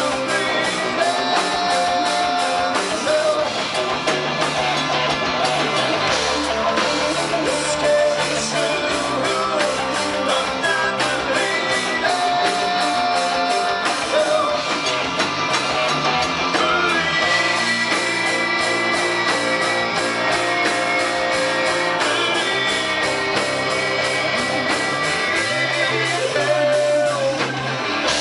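Rock band playing: guitars over a steady drum beat, with long held notes and some singing.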